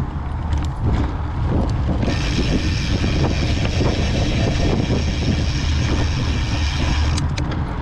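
Wind buffeting the microphone and mountain-bike tyres rolling over a rough dirt trail, with a steady low rumble. About two seconds in, a steady high buzz joins and runs until shortly before the end.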